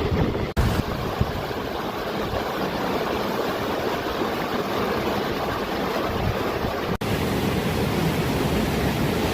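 Steady rushing of flowing water, with two brief dropouts about half a second in and near seven seconds.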